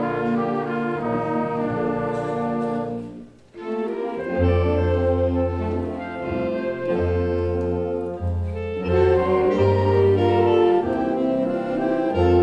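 High school concert band playing a holiday piece: held, brass-heavy chords, with a brief break about three seconds in before the band comes back in with strong low notes.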